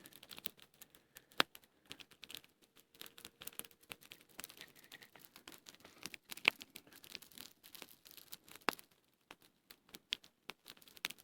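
Small campfire of birch bark and twigs crackling, with irregular light ticks and a few sharper pops.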